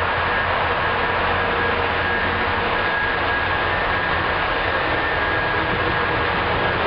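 Engine room machinery running steadily: a loud, even machine noise with a low hum and a thin high whine held throughout.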